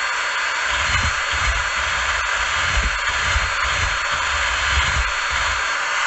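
Electric drill spinning a wire brush against a spark plug, giving a steady hiss over the motor's faint high whine, with an uneven low rumble.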